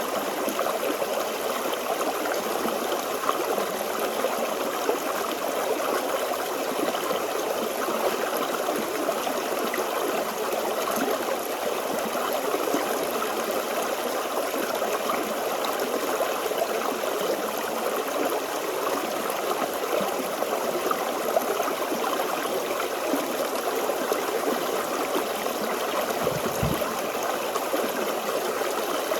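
Forest stream running steadily, the water babbling and trickling without a break.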